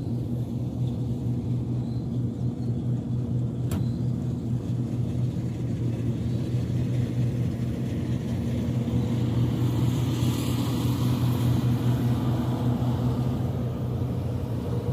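A steady low mechanical hum, like a motor running, with a single sharp click about four seconds in and a brief hiss near the end.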